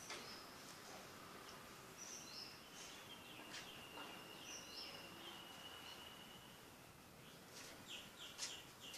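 Near silence, with faint high bird chirps scattered through it and a thin high note held for a few seconds in the middle.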